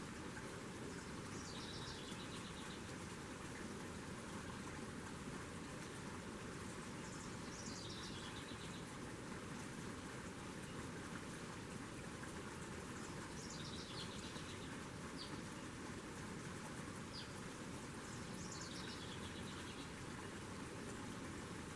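Small birds calling: a high, descending trill lasting about a second, heard four times, with two short chirps in between, over a steady outdoor background hiss.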